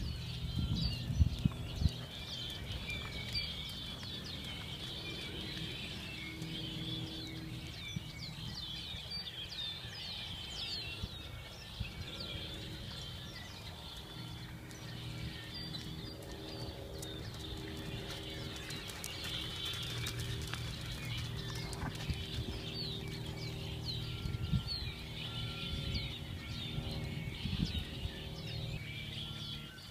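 Many small birds chirping continuously in a busy, overlapping chorus of short calls.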